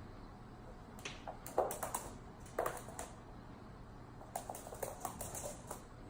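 Rapid taps and clicks from an African grey parrot playing at a mirror, in two quick flurries: one about a second in and one about four seconds in.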